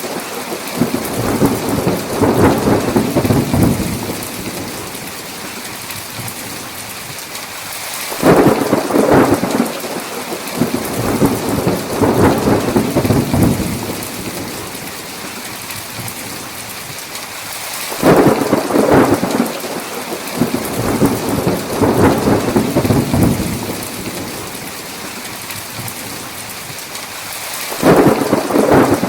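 Steady rain hiss of a heavy thunderstorm, with a clap of thunder breaking in sharply and rumbling for a few seconds about every ten seconds, three times.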